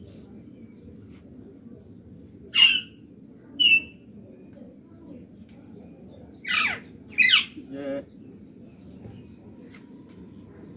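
A bird calling: two short, shrill squawks falling in pitch, then a few seconds later two longer calls sweeping steeply downward, followed by a lower call.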